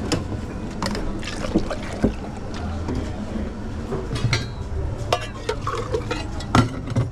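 Drink-making at a café counter: cups and utensils knocking and clinking, with liquid being poured, over a steady low machine hum.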